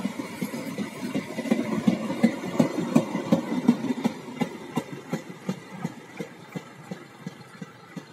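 Passenger train coaches rolling past, their wheels clacking in a quick, regular rhythm over the rail joints over a steady rumble. The clacking is loudest as the last coach goes by, then fades as the train pulls away.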